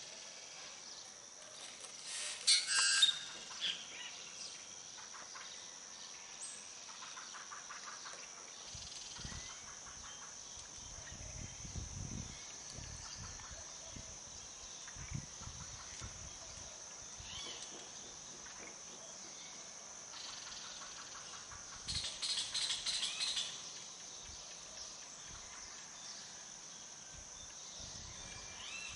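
Birds calling over a steady high-pitched insect drone, likely crickets. The birds are loudest in two short bursts, about two seconds in and again about twenty-two seconds in, with fainter calls in between. A few low rumbles come through near the middle.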